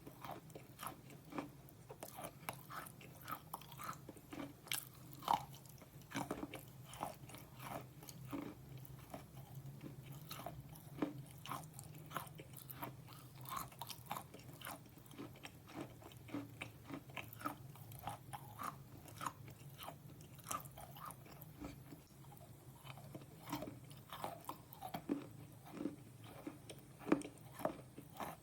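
Close-up chewing of slate pencil: many short, sharp crunches and crackles at an uneven rhythm of a few per second as the brittle pieces are bitten and ground between the teeth.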